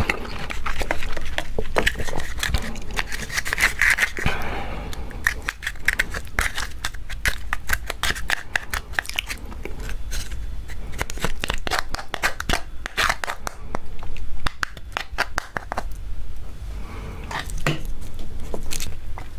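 Close-miked eating of raw marinated crab: a dense run of sharp, wet clicks and cracks from the shell being bitten, broken and sucked. The clicks crowd together in the middle stretch and thin out towards the end.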